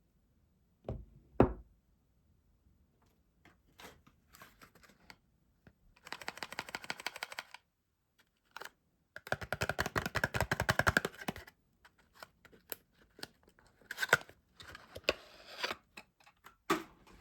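Soap packaging being handled and unwrapped: two knocks about a second in, then crinkling and rustling in two longer stretches, with scattered small clicks between them.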